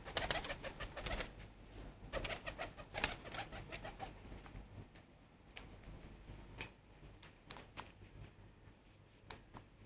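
Domestic pigeons cooing, with dense clusters of sharp clicks and flutters in the first four seconds, then only a few scattered clicks.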